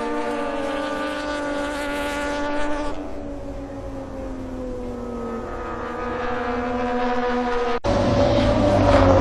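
Racing motorcycle engine running at high revs, its note holding and then slowly dropping in pitch. About eight seconds in it cuts sharply to a louder, closer bike whose note also falls.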